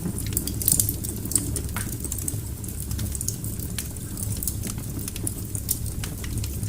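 Wood fire burning in a fireplace: many sharp crackles and pops, irregular and scattered, over a steady low rumble of the flames.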